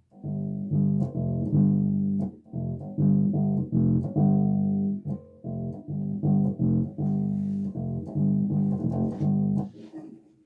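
Bass guitar played solo: a line of plucked, sustained notes with short breaks between them, stopping shortly before the end.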